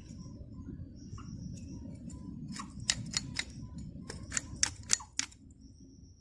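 A run of sharp clicks or snaps in two quick clusters, about four and then about five, over a steady low rumble, with birds chirping repeatedly in the background.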